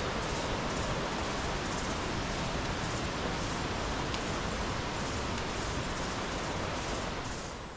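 Steady rushing of river water over rocks, a dense even roar of white water, easing off near the end.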